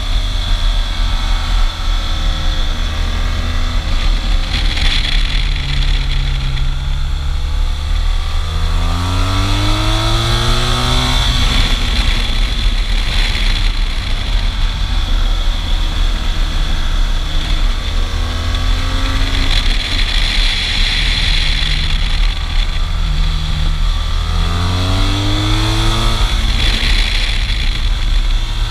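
Motorcycle engine under way, accelerating twice with the pitch rising through the revs, running steadily in between, with wind rushing over the microphone.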